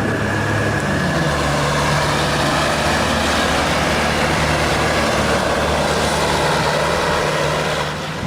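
Heavy truck's diesel engine running steadily under load on a climb, with a shift in engine pitch about a second in.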